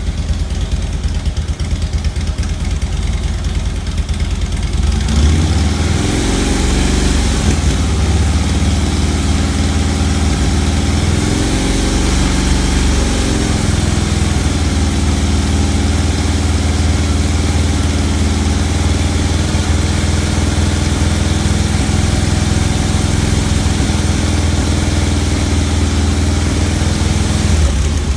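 2009 Harley-Davidson Electra Glide Standard's Twin Cam 96 V-twin running through its stock exhaust. It idles, then about five seconds in it is revved up and held near 2,500 RPM, typical cruising revs. Near the end it drops back to idle.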